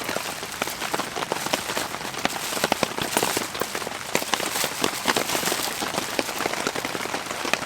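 Heavy rain falling on the tent, a steady hiss of many sharp individual drop strikes heard from inside the shelter.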